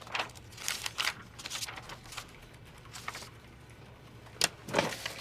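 Scattered, irregular clicks and rustles of office desk activity, with no steady rhythm; the sharpest click comes about four and a half seconds in.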